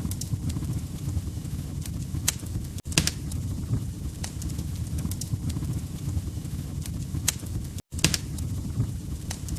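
Wood fire crackling: a steady low rumble of burning logs with irregular sharp pops and snaps, several of them loud. The sound drops out for an instant twice, once about three seconds in and once near eight seconds.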